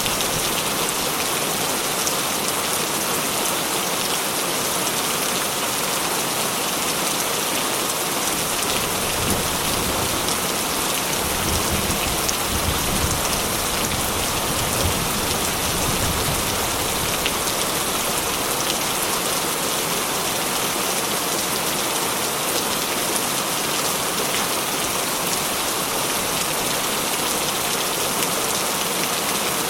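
Heavy rain falling steadily. A low rumble of distant thunder swells in the lows from about nine to seventeen seconds in.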